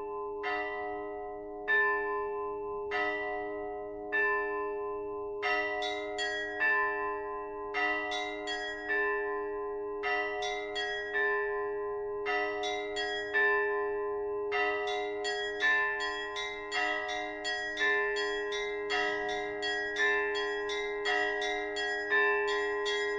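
Bells ringing: single strikes a little over a second apart, then from about five seconds in a faster, fuller peal of several bells over a steady low hum.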